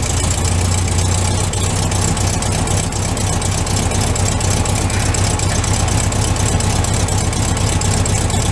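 Air-cooled flat-four engine of a 1964 VW Beetle (1500cc) idling steadily, running after its valve-cover oil leaks were fixed.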